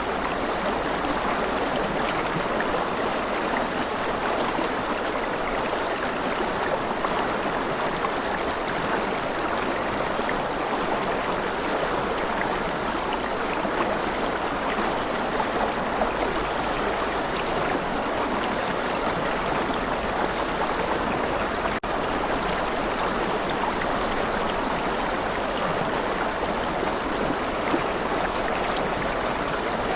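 Rushing river water, a steady, even flow with no change in level except one split-second dip about two-thirds of the way through.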